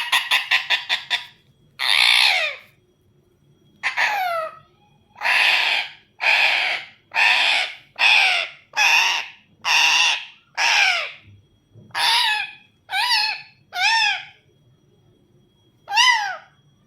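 A pet parakeet screeching. It opens with a quick rattling burst, then gives a long series of harsh calls about one a second, the later ones sliding down in pitch.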